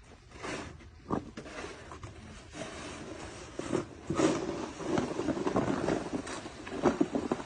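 Irregular crunching of snow, a dense run of short crunches and scrapes that grows busier and louder about halfway through.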